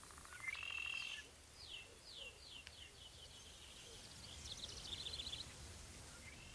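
Songbird singing: a short call, then a run of quick down-slurred notes and a burst of rapid trills near the end, over a faint low rumble of background noise.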